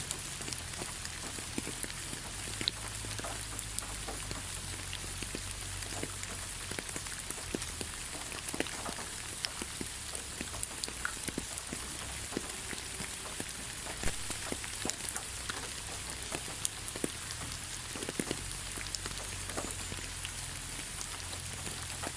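Steady rain falling on a forest, an even hiss with many individual drops ticking and pattering at irregular moments.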